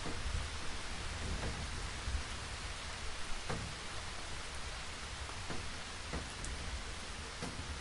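Steady rain falling, with a few separate drops landing clearly now and then and a low steady rumble underneath.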